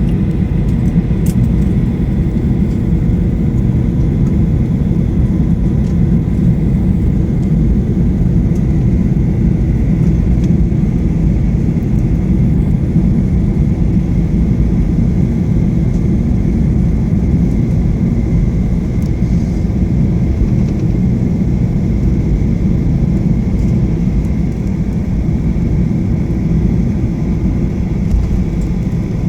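Steady rumble of a Boeing 737-800's CFM56-7B jet engines and airflow heard inside the passenger cabin, with a faint steady whine over it. The level holds even throughout, with no spool-up.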